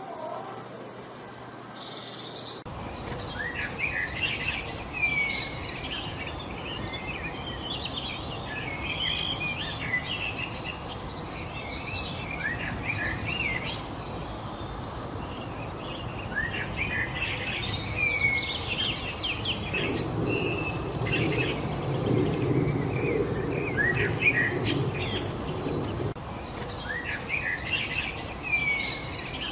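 Several songbirds singing and chirping busily over a steady background hiss, the chorus starting about two and a half seconds in. A low rumble comes up under the birds for a few seconds past the middle.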